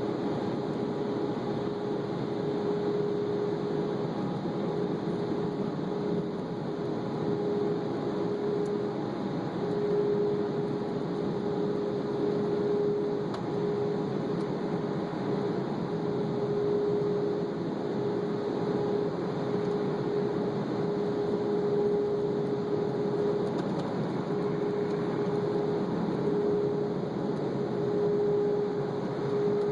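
Automatic car wash machinery running: a steady rushing noise with a humming tone that cuts in and out every second or two.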